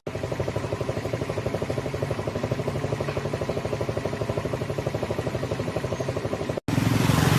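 An engine running at a steady speed with a rapid, regular pulsing beat; it cuts off abruptly near the end.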